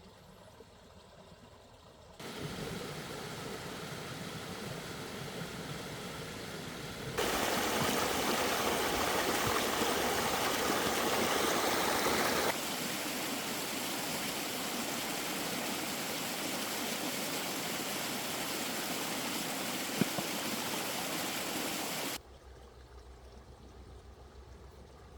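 Running water, heard in three stretches of differing loudness that switch abruptly, the loudest in the middle. There is a single sharp click near the end.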